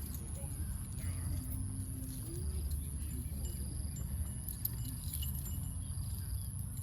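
Faint metallic jingling, such as a bell on a walking elephant, over a steady low rumble.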